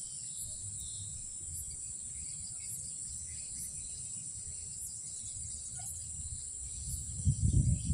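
Night insects calling in a steady high-pitched drone. A low rumble swells loudly near the end.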